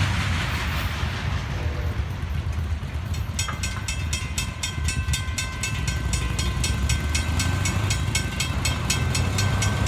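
Loaded rock cars of a Florida East Coast freight train rolling past with a steady low rumble. About three and a half seconds in, a rapid, regular high ringing of about four strikes a second starts and carries on over it.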